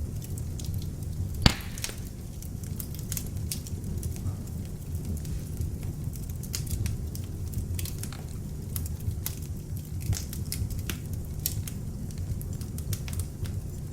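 Beech-wood log fire in an open fireplace crackling: a steady low rumble of flames with frequent sharp pops and snaps, the loudest about a second and a half in.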